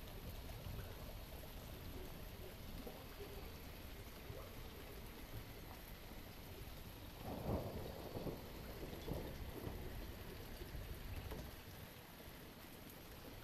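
Ambience track of steady rain with a low thunder rumble, swelling louder for a moment about halfway through.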